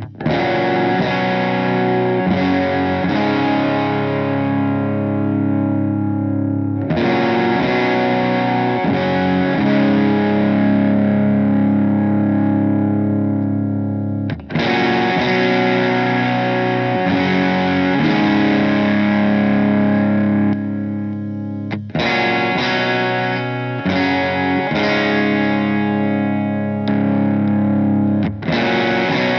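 Electric guitar played through a Donner Dumbal Drive light-gain overdrive pedal: big chords struck and left to ring for several seconds each, changing more often near the end.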